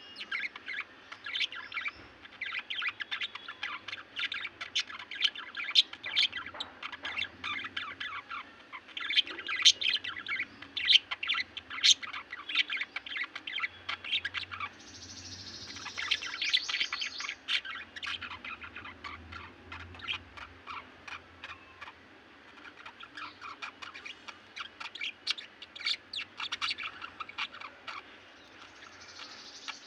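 Small pet parrots chattering: a continuous, fast stream of chirps and warbles, with a harsher, hissier stretch about halfway through.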